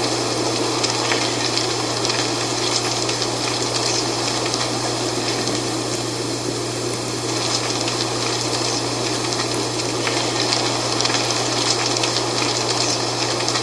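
Wind blowing steadily through dry fall leaves, with the leaves rustling and crackling in many small ticks.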